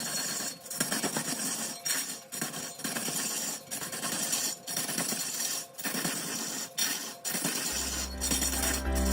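Scraping of a turning tool cutting wood on a lathe, in rough strokes broken by short pauses about once a second. Music with low sustained notes comes in near the end.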